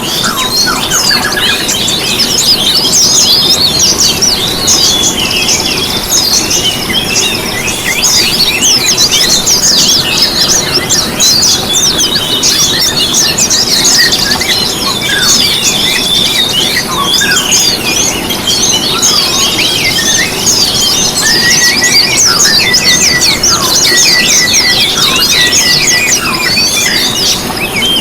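Songbirds singing in a dense, unbroken chorus: rapid high twittering and chirping notes from several birds overlapping.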